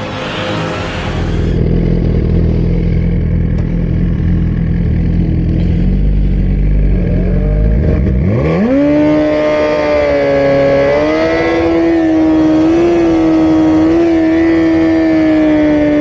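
A high-performance engine running low and steady, then revved sharply about eight seconds in and held at high revs, wavering slightly.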